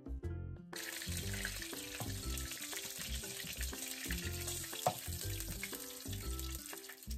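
Pork belly cubes sizzling as they fry in their own rendered fat in a pan, the sizzle coming in suddenly about a second in, over background music with a steady bass line. One sharp click about two-thirds of the way through.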